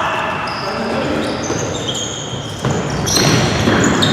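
A ball game in an echoing sports hall: a ball bouncing and shoes squeaking on the court floor, with many short high squeaks and voices in the background.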